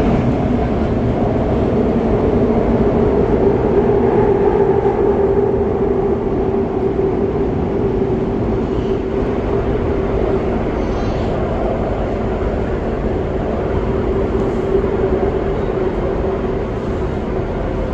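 Qingdao Metro Line 8 train running between stations, heard inside the car: a steady rumble of wheels and running gear with a held mid-pitched hum.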